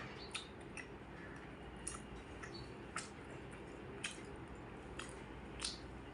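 Close-miked eating: chewing with small wet mouth clicks and smacks, about one a second, over a steady low hiss.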